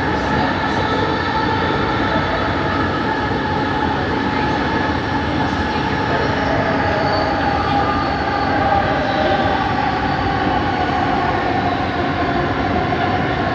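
Bombardier Innovia ART 200 train running, heard from inside the car: a steady rumble of the ride with several whining tones from its linear induction motors, the unusual motor noise the ride is known for.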